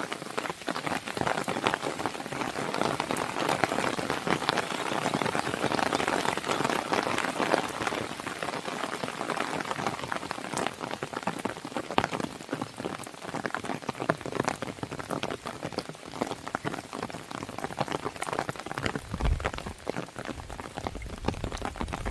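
Steady rain falling on a window, with sharp crackles and pops from a wood fire scattered through it. A low rumble comes in near the end.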